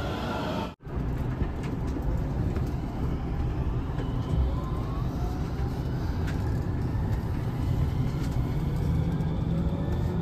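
Onboard running noise of a JR West 207 series commuter train: a steady low rumble of wheels on rail, with a faint rising whine from the traction motors as the train picks up speed. Under a second in, the falling tone of the train pulling into the platform is cut off abruptly.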